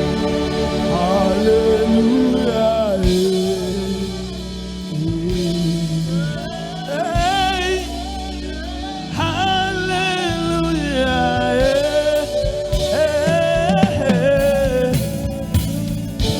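Gospel worship music: a choir and vocalists singing with vibrato and melodic runs over a live band.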